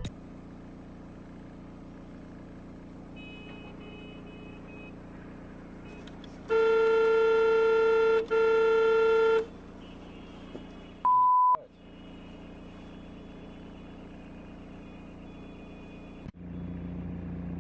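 Vehicle horn sounding in two long blasts, one right after the other, over a steady engine hum inside the cab. A couple of seconds later comes a short, single-pitch electronic beep with the rest of the sound cut out around it, like a censor bleep.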